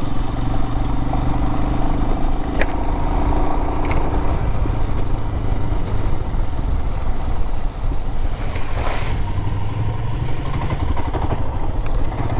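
Adventure motorcycle engine running steadily while riding along a dirt road, with tyre and road noise and a few sharp knocks, the loudest a little past the middle.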